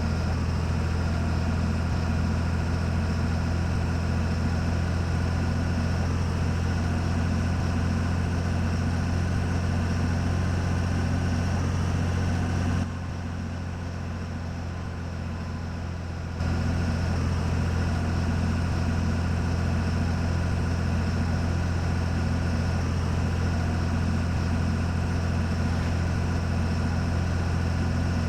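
Scania 113 truck's six-cylinder diesel engine running at a steady speed with a deep, even drone. About halfway through it goes quieter for some three seconds, then comes back at the same pitch.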